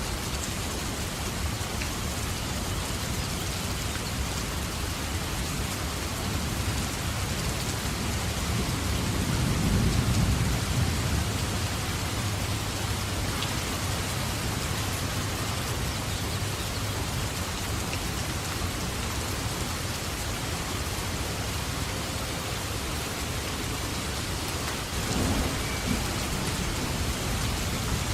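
Steady heavy rain falling, with a low roll of thunder swelling up about ten seconds in and a shorter rumble near the end.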